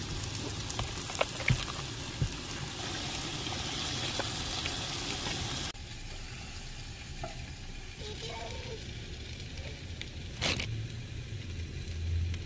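Portobello mushroom caps and zucchini slices sizzling as they fry in a pan. The sizzle cuts off abruptly a little under halfway through, leaving a quieter background with one sharp click later on.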